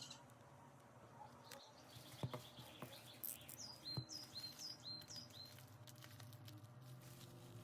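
Near silence with a few faint soft clicks, and about halfway through a quick run of five short, high chirps, each dropping in pitch, like a small bird calling.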